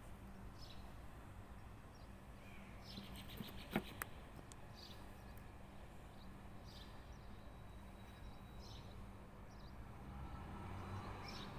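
Small birds chirping in short, scattered high calls. One sharp click sounds a little under four seconds in, over a steady low hum.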